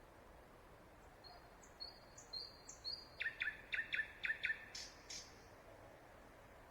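A songbird singing at night, which the recorder takes for a nightingale. It sings one phrase of a few high, clear notes, then a quick run of about six sharp, downward-sweeping notes, stopping a little after the middle, over a faint steady hiss.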